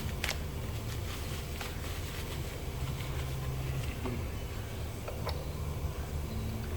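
Steady low mechanical hum with a few light ticks and taps.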